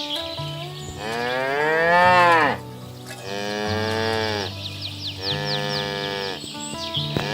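Cattle mooing: three long, drawn-out moos one after another, with a fourth starting near the end. The first is the loudest and rises, then falls in pitch.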